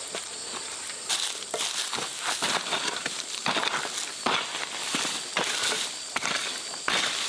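Irregular crunching and rustling of dry plant material, a few crunches a second, over a steady faint high insect buzz.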